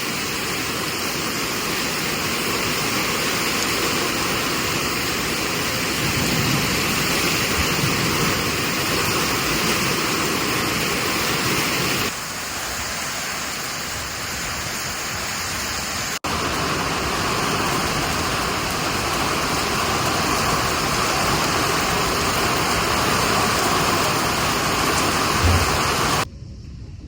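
Steady heavy rain, a continuous hiss. It changes abruptly about twelve and sixteen seconds in and drops away just before the end.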